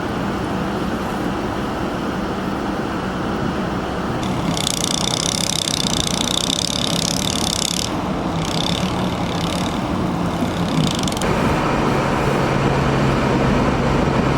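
A motor vehicle's engine running steadily, its pitch shifting a little about eleven seconds in. A high hiss joins it from about four to eight seconds in.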